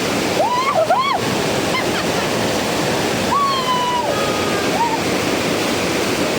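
Steady rushing noise of a large waterfall, with a few short high-pitched voice calls over it, about half a second in and again around three and a half seconds.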